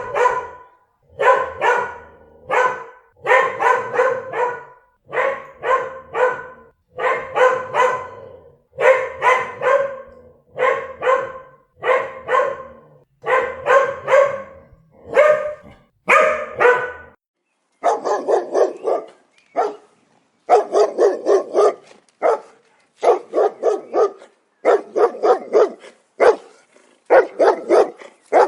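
A dog barking over and over in quick runs of several barks with short pauses between runs. About two-thirds of the way through the barking changes to quicker, shorter barks.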